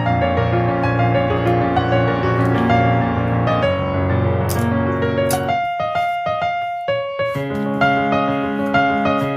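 Background piano music: a slow, gentle piece with sustained chords, thinning to a few high notes for a moment about six seconds in before the full chords return.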